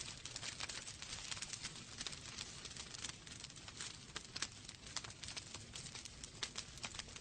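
Wood fire burning in a fireplace, the logs crackling with many irregular sharp pops over a steady soft hiss.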